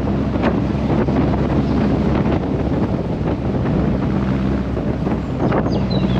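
Car engine running at a steady cruise, with wind buffeting the microphone and road noise, and a few brief knocks.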